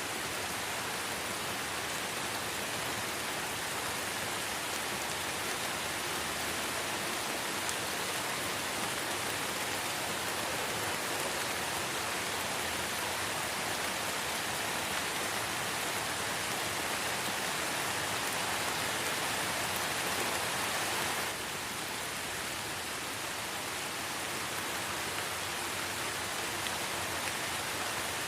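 Light rain falling in a forest, a steady, even hiss with no single drops standing out. The rain drops slightly in level and brightness about 21 seconds in.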